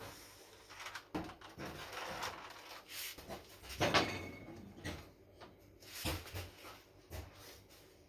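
Scattered knocks, clatters and rustles of household items being handled, in the way of groceries being unpacked and put away, with the loudest clatter about four seconds in.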